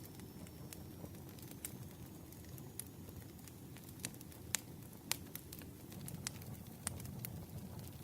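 Campfire crackling: a low, steady rush of burning wood with scattered sharp pops, the loudest two about halfway through.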